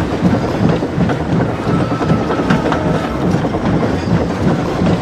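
A train running along the track: a steady rumble with a regular clickety-clack of wheels over the rail joints.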